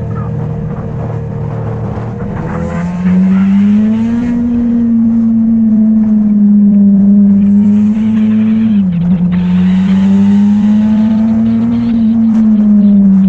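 Motorcycle engine running under way at a steady speed, getting louder and higher in pitch about three seconds in as it picks up speed, with a short sudden drop in pitch about two-thirds of the way through.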